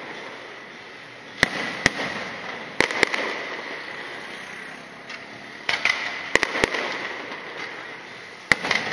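Aerial firework shells bursting overhead: sharp bangs, some in quick pairs or clusters, every second or two, each followed by a crackling tail that fades away.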